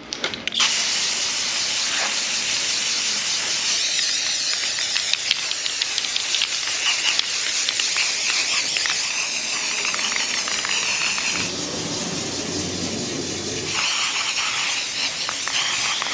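Aerosol spray-paint can spraying a waterproofing coat onto plywood: a steady hiss that starts about half a second in and runs almost without a break.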